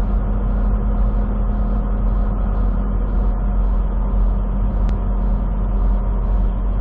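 Semi truck cab interior while driving: a steady engine and road drone, with a faint regular pulse about three times a second.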